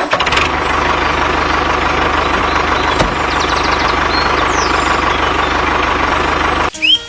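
Tractor engine running steadily at idle with an even low chugging rhythm, cutting off abruptly near the end. Music with bird chirps starts right after.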